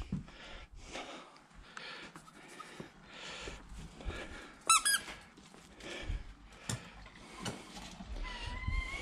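A squeaky rubber ball toy squeezed in a quick run of high, rapid squeaks about five seconds in, amid light knocks and handling sounds.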